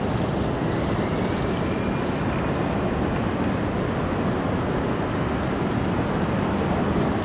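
Jet airliner's engines at takeoff power, a steady low rumble as it rolls down the runway.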